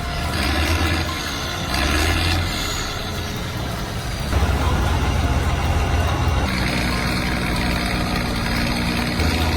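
A tractor's engine revving hard in repeated surges under load while the machine is stuck and its wheels spin, then settling to a steadier, even run for the last few seconds.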